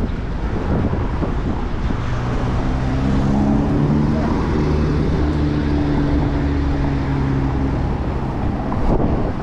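Wind buffeting the microphone while cycling in traffic. A vehicle's engine hum with a steady pitch rises above it from about two and a half seconds in until near the end.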